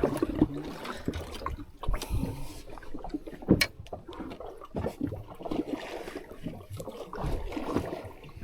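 Water sloshing and slapping against a small fishing boat's hull, with scattered knocks and a sharp click about three and a half seconds in.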